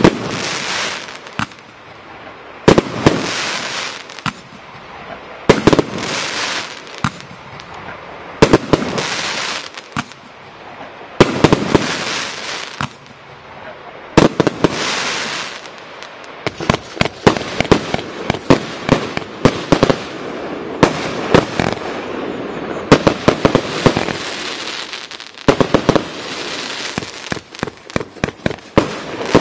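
Myth And Mayhem firework barrage firing. For the first half, loud bangs come about every three seconds, each trailed by about a second of hissing. From about halfway in there is a faster, denser run of many bangs and crackles.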